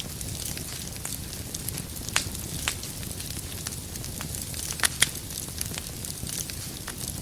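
Wood fire crackling over a steady low rumble, with scattered sharp pops; the loudest are a pair just under five seconds in.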